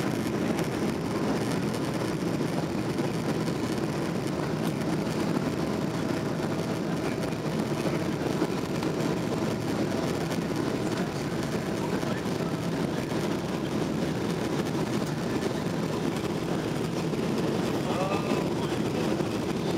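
Steady roar of a Boeing 777-200LR's GE90 engines and rushing air during takeoff, heard from inside the cabin.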